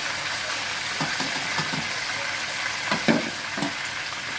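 Whole marinated chicken frying in hot oil in a pan, a steady sizzle, with a few short knocks, the loudest about three seconds in.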